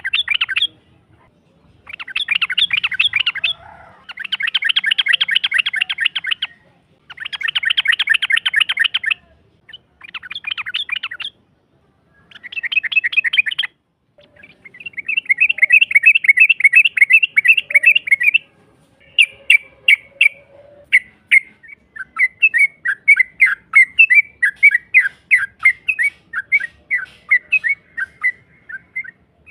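Yellow-vented bulbul (trucukan) chattering in rapid trills, several bursts of one to four seconds with short pauses between. From about two-thirds of the way through come separate sharp notes, about three a second.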